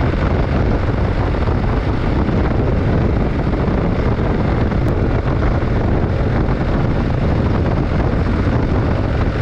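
Motorcycle on the move: steady wind rushing over the microphone with the engine running underneath as a low, even rumble.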